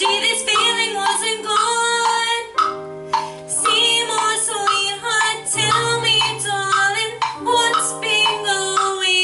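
A woman singing a musical-theatre song over a band accompaniment, with held bass notes that change every second or two.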